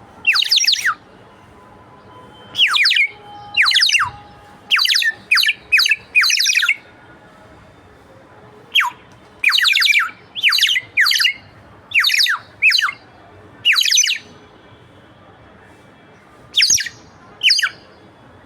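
Water-filled bird whistle blown in short bursts, about sixteen in irregular groups. Each burst is a quick warbling chirp that sweeps down in pitch, imitating a bird.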